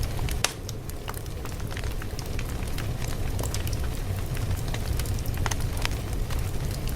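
Wood fire crackling: a steady low rumble with frequent irregular sharp pops and snaps.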